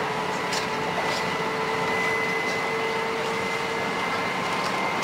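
Steady running noise of a Tohoku Shinkansen train at speed, an even rushing hum with faint steady whining tones and a few light ticks.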